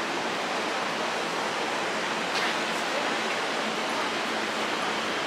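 Steady, even rushing noise of an E257 series limited express train in the station, with no clear rhythm or clicks.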